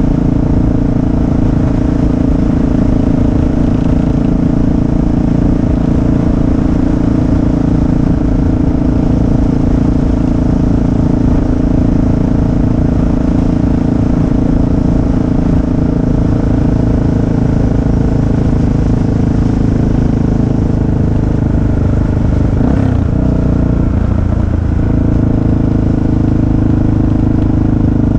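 Motorcycle engine running steadily while riding, with a brief change in pitch near the end before it settles back to a steady note.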